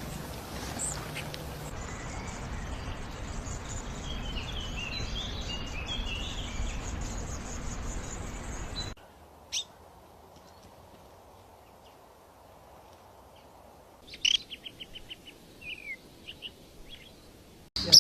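Small birds chirping in a few separate clips. In the first half, faint chirps sit under a steady background hiss. After an abrupt cut comes a single chirp, then, near the end, a quick trill of short notes and a few downward-sliding calls.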